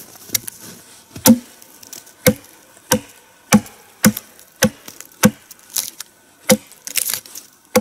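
Axe blows chopping into a log, about a dozen sharp strokes roughly every half second, hewing away the bark and outer layers of wood so the log will catch fire more easily.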